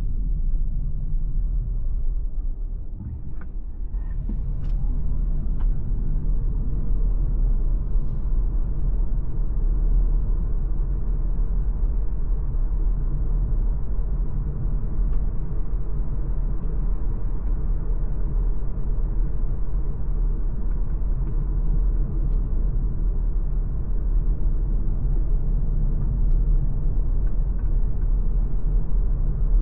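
MG ZS Hybrid+ on the move, giving a steady low driving rumble of tyres and drivetrain. The loudness dips briefly about three seconds in, with a few light clicks.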